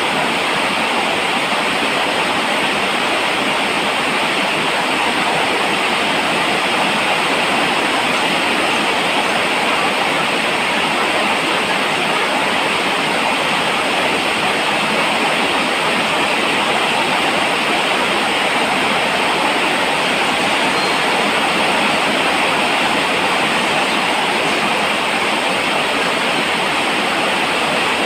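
Steady falling rain, an even hiss with no single drops standing out.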